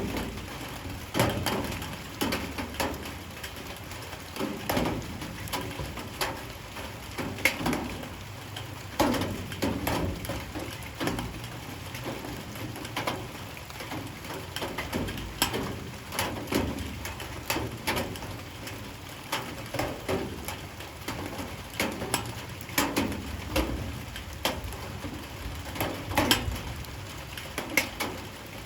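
Light rain, with large drops falling irregularly onto a surface as short knocks, one or two a second, over a faint steady patter.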